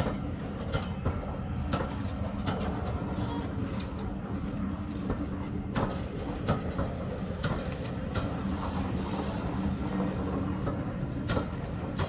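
Heritage railway passenger coaches rolling slowly past: a steady low rumble from the wheels and running gear, with irregular sharp clicks and knocks as the wheels pass over the rail joints.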